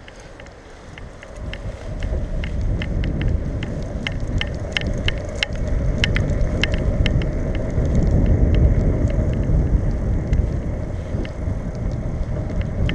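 Bicycle riding along: wind and road rumble on the bike-borne camera's microphone, building over the first couple of seconds as the bike picks up speed, with scattered light ticks and rattles.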